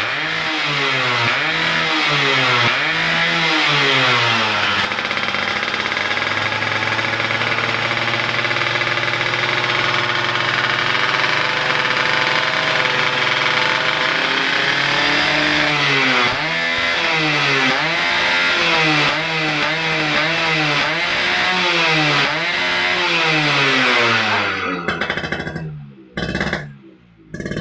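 Yamaha F1ZR two-stroke engine through an AHM aftermarket exhaust, revved in repeated blips that rise and fall in pitch, then held high for several seconds, then blipped again. It drops away near the end.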